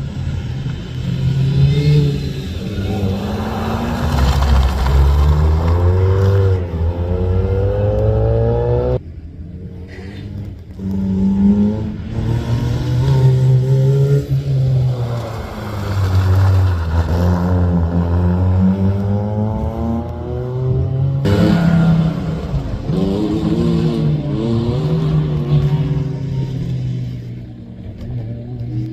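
Rally car engine accelerating hard, its pitch climbing repeatedly as it changes up through the gears. The throttle is lifted sharply about nine seconds in, and again just past twenty seconds, before the engine pulls up again.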